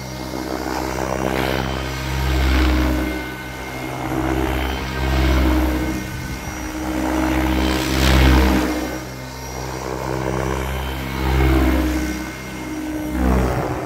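KDS Agile 7.2 700-size RC helicopter flying 3D manoeuvres: a steady pitched whine from the motor and rotor head, with the rotor blade whoosh swelling and fading every two to three seconds.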